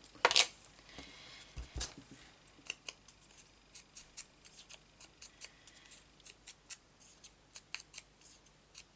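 Hand-crafting with paper at a desk: a run of small, sharp clicks and snips, irregularly spaced about one to two a second, with a louder knock just after the start.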